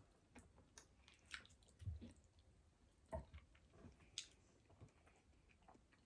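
Faint close-up chewing and eating, with small clicks and wet mouth sounds at irregular moments.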